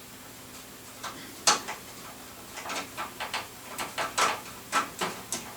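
Light clicks and taps of hard parts being handled in a computer case's drive bay: one sharp click, then a quick run of small knocks.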